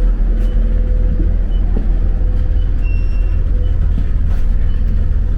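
Steady low rumble of a road vehicle's engine, with a short high beep repeating about once a second and one longer beep about three seconds in.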